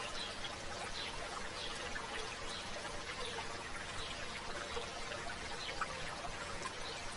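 River water babbling and trickling steadily over stones.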